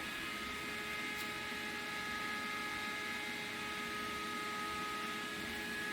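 Steady electrical and fan hum of a powered-up Haas VF-6SS CNC machining center standing at rest, with several faint steady whining tones over a soft hiss.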